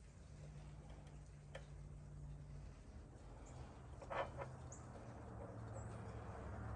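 Faint high bird chirps over a low steady hum, with a few light clicks and a brief clatter about four seconds in.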